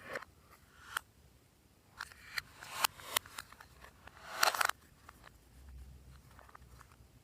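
Slime being worked by hand: a run of sharp sticky clicks and pops, then a longer crackling rush about four and a half seconds in, followed by fainter handling.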